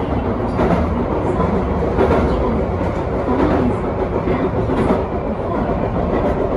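Electric commuter train running on the rails, heard from the front of the train: a steady rolling rumble with a few faint clicks from the track.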